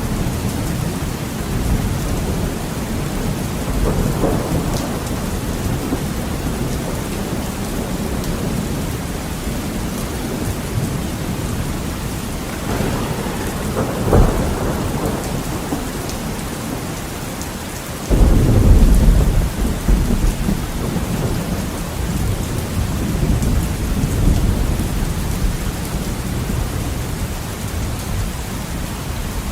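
Heavy rain beating steadily on a window, with thunder rolling through: a few low rumbles, a sharper clap about halfway, then the loudest, deep rumble breaking in suddenly after about eighteen seconds and rolling on for several seconds.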